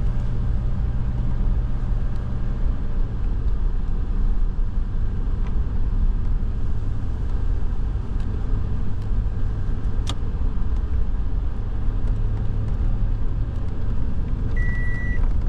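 A vehicle's engine running steadily, heard from inside the cabin as a low, even rumble. A single sharp click comes about ten seconds in, and near the end a high electronic beep starts sounding at a steady on-off pace.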